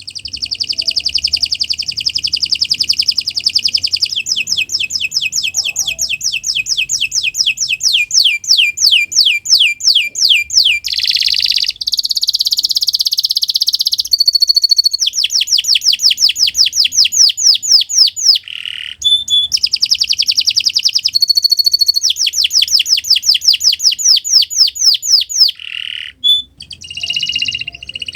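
Domestic canary singing a long, nearly unbroken song: fast rolls of rapidly repeated falling notes, changing from one roll to the next, with only a brief break about 26 s in.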